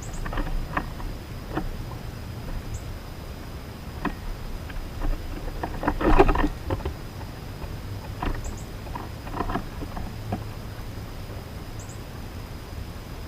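Scattered light taps and clicks of birds feeding at a backyard bird feeder, with a louder burst of rustling and knocking about six seconds in and a few faint, very short high chirps.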